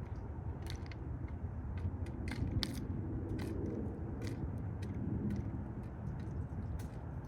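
Mourning doves pecking at bird seed: irregular sharp clicks of beaks striking seed, several a second, over a low steady rumble.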